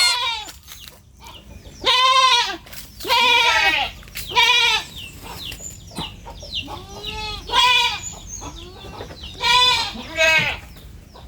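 Baby goats bleating: a series of about seven high, wavering calls, each rising and then falling in pitch, separated by short pauses.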